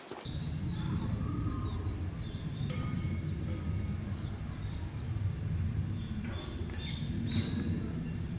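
A steady low rumble of outdoor noise, with small birds giving short, high chirps now and then through it.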